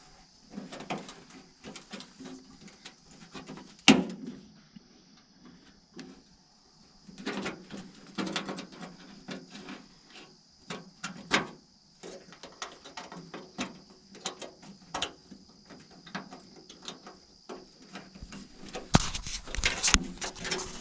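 Metal parts and hand tools being handled on a shop bench: scattered clicks, clanks and knocks, one sharp knock about four seconds in and a denser run of louder knocks near the end, over a steady high hiss that stops shortly before them.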